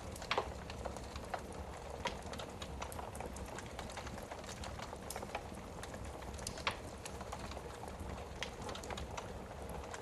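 Wood fire burning in a fireplace, crackling steadily with a soft rushing hiss underneath. Frequent small pops, with two louder ones, one right at the start and one about two-thirds of the way through.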